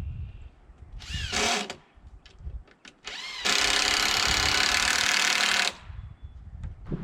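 An electric power tool run in two bursts: a short spin-up and wind-down about a second in, then a steady run of about two seconds from about midway, with a few small clicks between.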